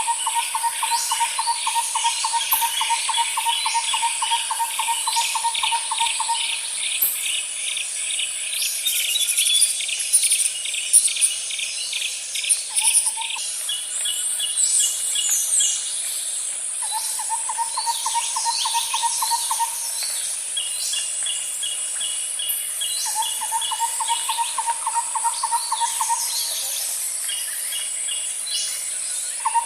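Nature soundscape of birds and insects: a steady high insect buzz throughout, with fast chirping trills above it. A lower trill of rapid, even pulses comes and goes in bouts of a few seconds, about five times, the last starting near the end.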